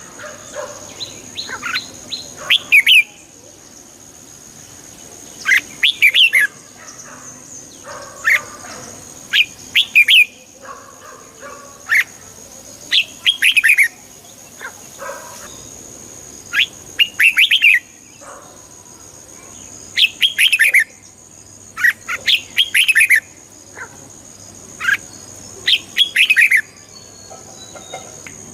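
Red-whiskered bulbul singing: short, quick phrases of a few bright whistled notes, repeated every one to three seconds.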